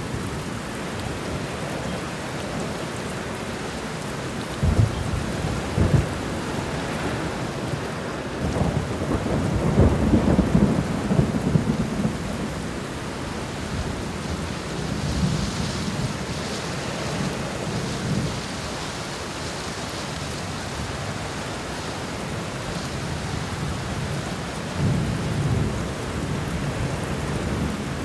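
Thunderstorm: steady rain with thunder. Two sharp claps come about five seconds in, a longer rolling rumble around ten seconds, and weaker rumbles later.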